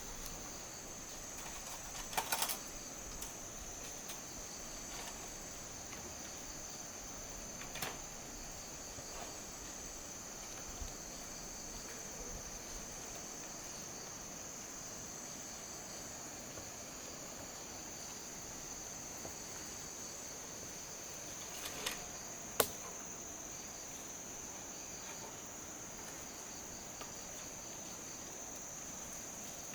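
A steady, high-pitched chorus of insects, with a small cluster of clicks a couple of seconds in and a single sharp knock about three quarters of the way through.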